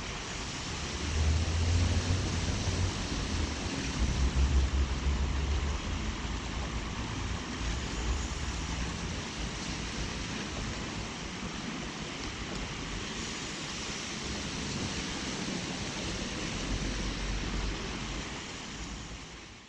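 Steady rain hiss during a thunderstorm, with low rumbles swelling about one and four seconds in.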